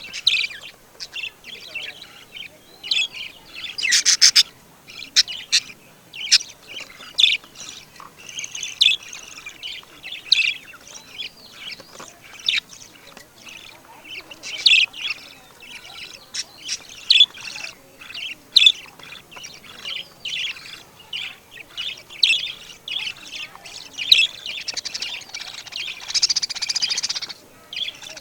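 Birds chirping and squawking: a busy run of short, high calls one after another, with a harsh buzzy call about four seconds in and a denser burst of calling near the end.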